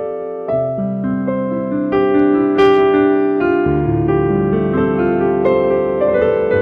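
Keyboard playing slow, sustained chords with a melody on top, the notes changing every half second or so.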